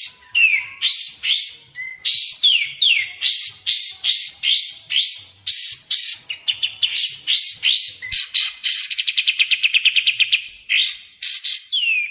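Kapas tembak bird calling loudly: a quick string of sharp, rising chirps about three a second, with a few falling notes between them. Near the end the chirps give way to a rapid trill lasting about two seconds.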